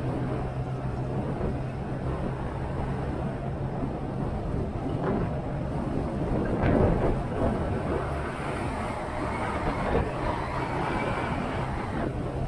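Motorcycle engine running steadily on the road, under the rush of wind and road noise. The engine swells briefly louder about halfway through.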